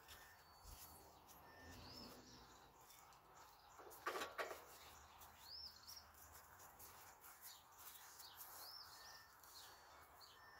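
Faint outdoor bird song: a songbird repeating a short rising-and-falling chirp about every three seconds, with other thin faint calls between. A brief clatter about four seconds in is the loudest sound.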